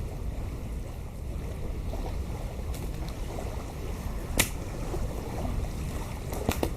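Wind rumbling on the microphone, with a campfire crackling: a few sharp pops, the loudest about four and a half seconds in and two more near the end.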